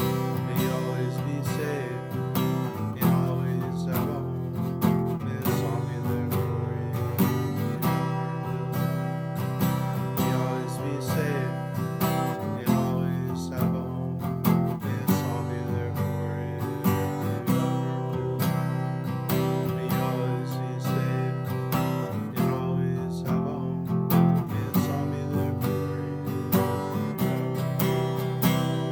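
Acoustic guitar strummed in a steady rhythm, the chords changing every couple of seconds.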